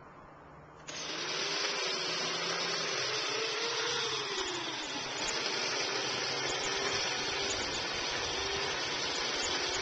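Chainsaw running at speed, loud and steady, starting abruptly about a second in, its pitch wavering slightly.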